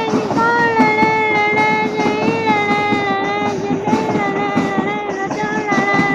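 FEVE freight locomotive's horn sounding one long, steady, single-pitched blast, with a short break at the start, over the rumble of the train.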